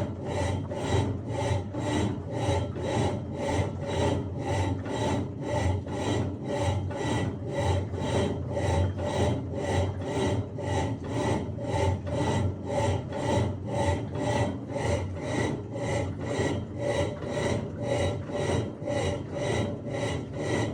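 Electrolux LTE08 8 kg top-loading washing machine in its wash cycle, agitating a load of bedding and towels in water: an even, rhythmic swish, about two strokes a second.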